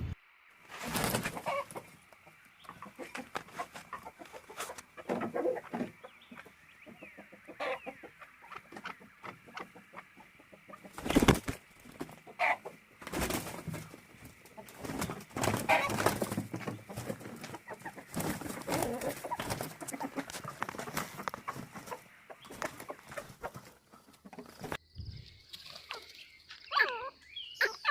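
A rooster clucking while scuffling with another bird, with wings flapping and irregular knocks, the loudest about eleven seconds in. Near the end there is a run of high, chirping calls.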